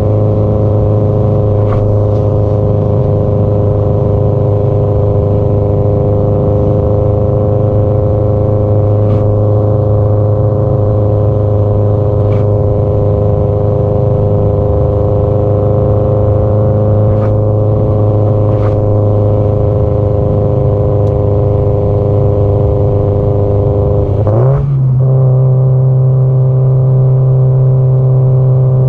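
Subaru Impreza GDB-E's turbocharged flat-four running through an aftermarket muffler, a steady exhaust note at cruise. About three and a half seconds before the end the revs step up quickly and hold at a higher pitch.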